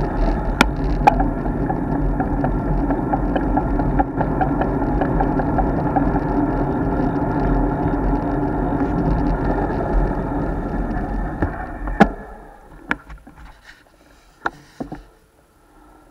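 Road bike riding noise picked up by an action camera: steady wind and tyre rumble with a few sharp knocks from bumps. About twelve seconds in, after a loud knock, the rumble falls away quickly to a much quieter stretch with scattered clicks and taps.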